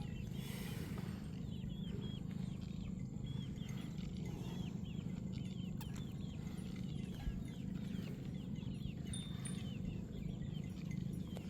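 Birds chirping in quick, repeated high calls, several a second, over a steady low rumble.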